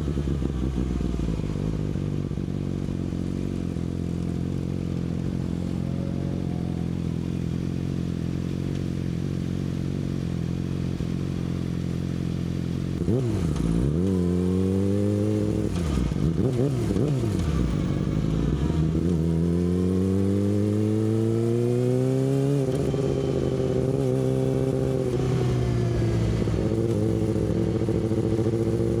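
Yamaha R6's inline-four engine through an Akrapovic exhaust, holding a steady low note. About halfway through, the revs rise and fall sharply several times, then climb and hold a higher, steady note.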